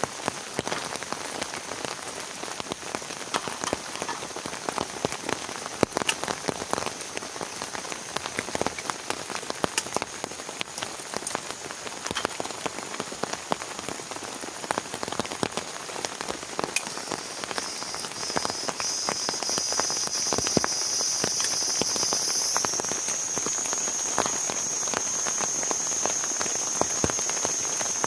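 Heavy rain falling steadily, a dense hiss with many sharp individual drop hits. About two-thirds of the way in, a steady high-pitched whine joins and steps up slightly in pitch a few seconds later.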